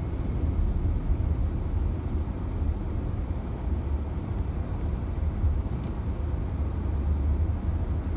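Steady low rumble of a car driving along, heard from inside the cabin: road and engine noise at a steady speed.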